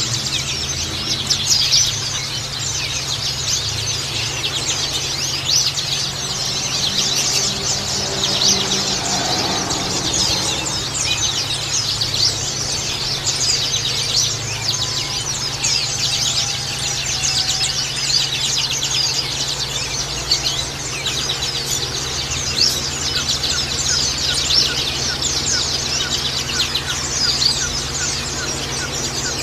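Many white-eyes (pleci) chirping and twittering at once, a dense, unbroken chatter of quick high notes, over a steady low hum.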